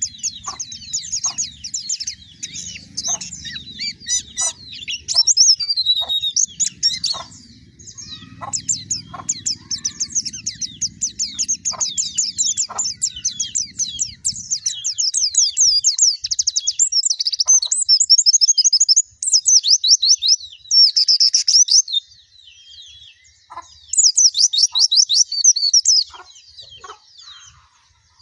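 White-eye (pleci) song: long runs of rapid, high-pitched twittering trills in bursts with short pauses. A faint low rumble lies under the first half and stops about halfway.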